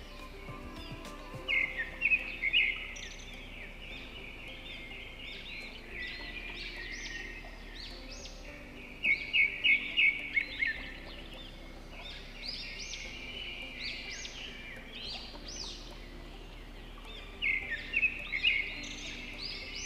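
Small birds chirping and singing throughout, with three louder bursts of rapid repeated notes, about eight seconds apart.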